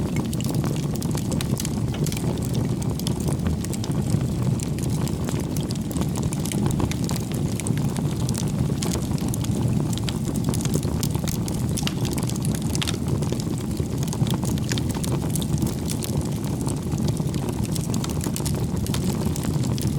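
Bonfire burning: a steady low rumble of flames with a dense scatter of small crackles and pops.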